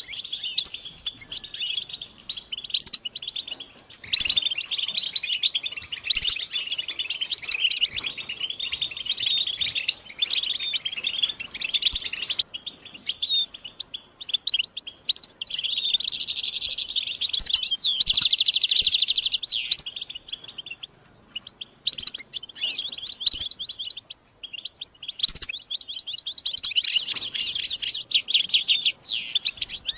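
European goldfinches chattering and singing: a dense, fast twittering song with quick rattling trills. This is the goldfinch's mating and stimulation chatter.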